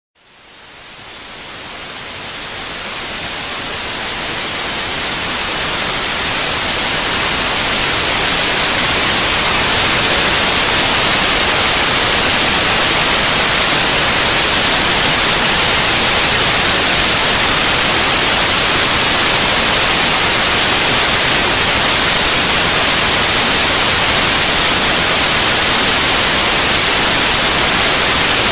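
Synthetic white noise for putting a baby to sleep: a steady, even hiss, strongest in the high end, that fades in from silence over the first ten seconds or so and then holds level.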